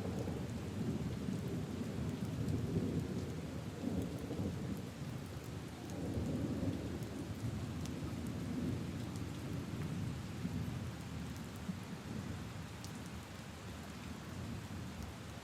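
Steady rain falling on puddles and leaves, with scattered drop ticks, under a long low rumble of thunder that slowly fades away.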